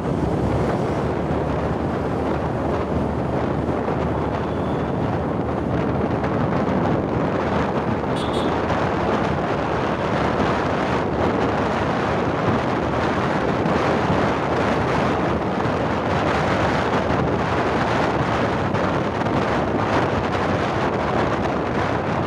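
Steady rushing wind noise buffeting the microphone, even and unbroken, with a faint brief high tone about eight seconds in.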